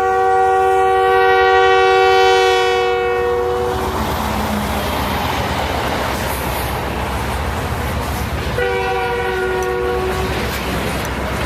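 CSX EMD SD70 diesel locomotive's multi-note air horn sounding a long blast for about the first four seconds, then a second, shorter blast near the end, over the steady rumble and clatter of the moving train.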